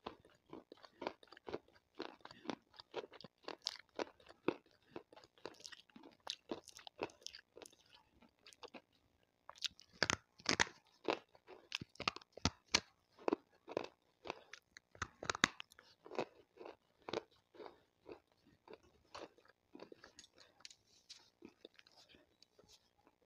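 Water-soaked slate stone being bitten and chewed right at a clip-on microphone: a steady run of sharp, gritty crunches, about two or three a second, with the loudest bites around the middle.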